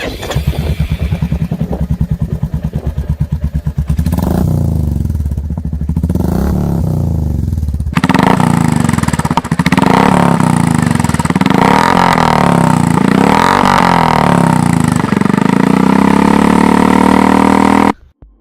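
Royal Enfield 349 cc single-cylinder engine running through an aftermarket exhaust. It idles with an even thump, then is revved again and again, the pitch rising and falling with each blip. It ends in one long climb that cuts off suddenly near the end.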